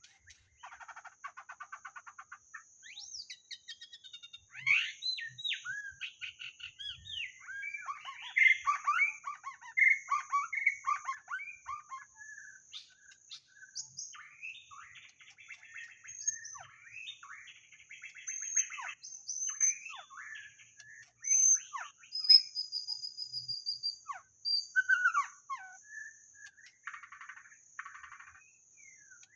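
White-rumped shama singing a varied song of rich whistled phrases and rapid trills, in bursts with short pauses between them, over a steady high faint buzz.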